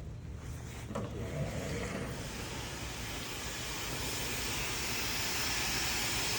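Handheld hair dryer blowing a steady rush of air that grows louder and brighter from about two seconds in, over a low motor hum.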